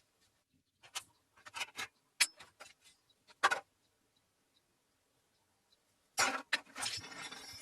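Objects being handled: a few short clatters and knocks, then a longer scraping rattle beginning about six seconds in.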